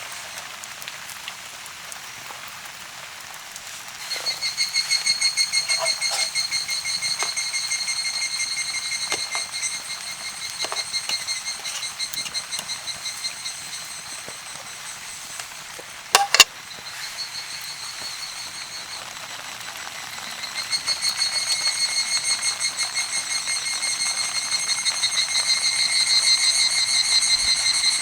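Steady rain hiss with scattered drop taps. A high, rapidly pulsing trill comes in about four seconds in, fades out mid-way, and returns louder for the last third. There is a sharp knock about halfway.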